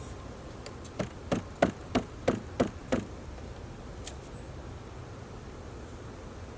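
A quick run of about seven sharp knocks, about three a second, at a beehive during an oxalic acid vapor treatment. Behind them is a steady low hum of honey bees stirring in and around the hive.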